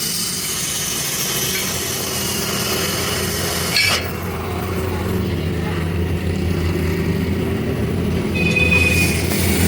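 Workshop machinery running loudly with a steady hiss over a low hum; it comes in abruptly at the outset. There is a sharp metallic clink about four seconds in and a brief high whine near the end.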